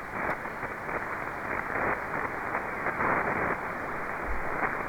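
Radio receiver hiss on the RS-44 satellite's single-sideband downlink between contacts. It is an even rush of noise, narrowed to the voice band, with no station coming through.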